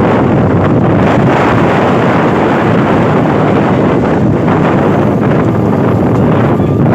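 Steady rushing noise of a train running at speed, with wind buffeting the microphone.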